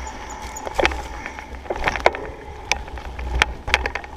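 Riding noise on a Surly Krampus mountain bike: a steady low wind rumble on the camera mic, with a few sharp clicks and knocks from the bike rattling over the trail.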